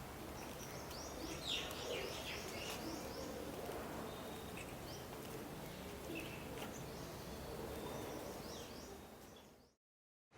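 Birds chirping: a quick run of short falling chirps about a second in and a few more near the end, over steady outdoor background noise, which then fades to silence.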